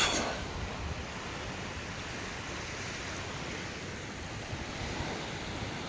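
Steady wash of ocean surf and wind on a beach, with a brief sharp knock at the very start.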